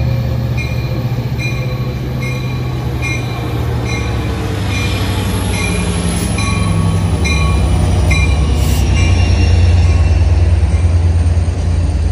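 Train passing with a heavy low rumble that grows louder in the second half, while a railroad grade-crossing bell dings steadily about one and a half times a second. A thin high whine falls slowly in pitch midway.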